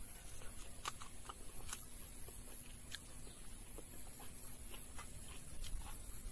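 Close-up eating sounds of someone chewing rice and smoked pork eaten by hand: scattered soft mouth clicks and smacks, with a faint steady hum underneath.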